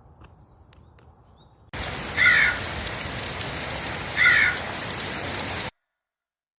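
Steady rushing water noise, like heavy rain or fast-flowing water, that cuts in abruptly a couple of seconds in and cuts off abruptly near the end. A short chirping call sounds twice over it, about two seconds apart.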